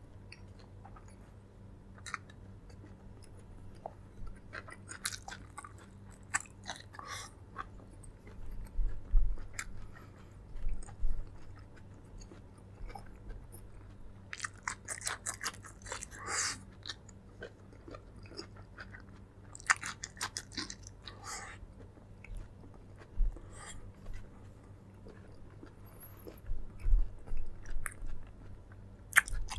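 Close-up mouth sounds of a person eating: chewing and biting with crunches and wet clicks, in irregular bursts. A faint steady hum runs underneath.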